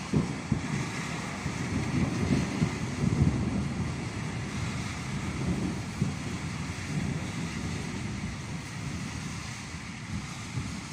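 Rolling thunder from a thunderstorm: a low rumble that swells over the first few seconds and slowly dies away.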